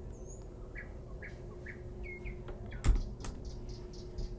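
Small birds chirping now and then over a steady hum, with a single sharp knock about three seconds in.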